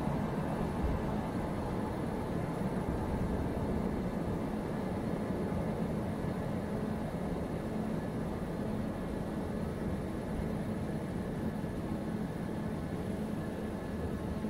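Freight train of container wagons rolling past on the far track: a steady low rumble that eases off slightly.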